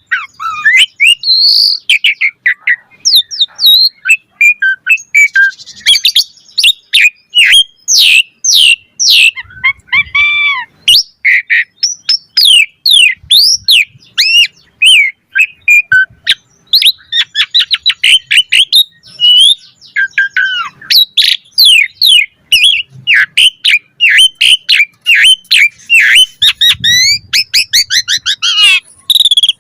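Asian pied starling (jalak suren) in full song: a fast, nearly unbroken stream of varied whistles, chirps and rising and falling glides, mixed with harsher squawky notes.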